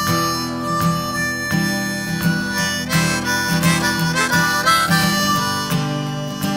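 Music: a harmonica playing a sustained melody over strummed guitar chords.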